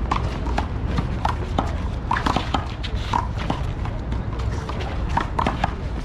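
Ball-game rally on a hard court: a string of sharp, irregular ball hits and shoe squeaks, several a second.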